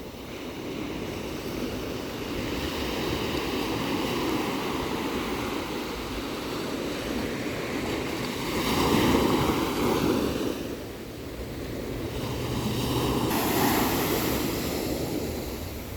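Ocean waves breaking and washing on the shore in a steady rush, with two bigger surges, one about 9 seconds in and another about 14 seconds in.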